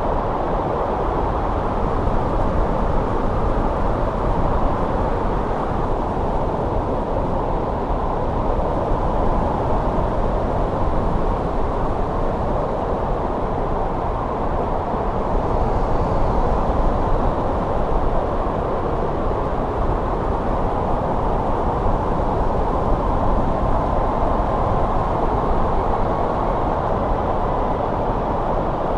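Steady wind of a snowstorm, a low rushing noise that swells slightly about halfway through.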